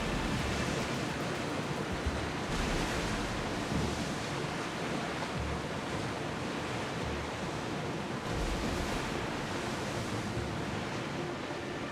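Sea waves: a steady rushing of water, with irregular low rumbles coming and going.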